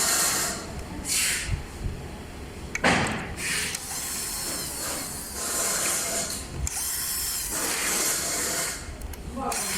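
Fasteners being worked with a tool while a replacement electric-scooter motor is installed, in a series of short bursts about a second long each.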